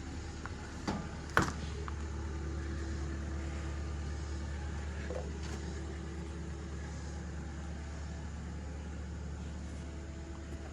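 A steady low rumble, with a sharp knock about a second and a half in and a smaller one just before it.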